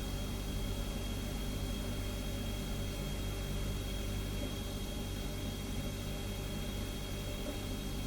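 Refrigerator running with a steady, unbroken low hum, a thin high whine and a soft hiss.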